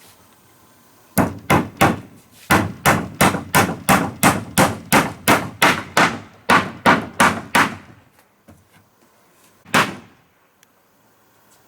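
Hammer blows on wood in a quick, steady run of about twenty strikes, roughly three a second, then a pause and one more blow near the end.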